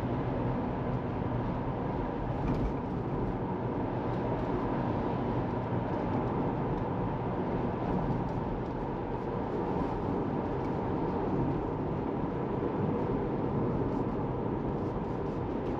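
Steady tyre and road noise of a Tesla Model 3 driving along, an even rush with no engine note and no change in level.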